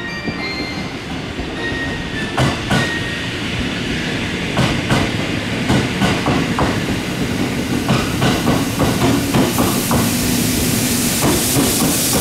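JR 285-series sleeper electric train rolling slowly past along the platform as it arrives, its wheels knocking irregularly over rail joints. A hiss grows near the end.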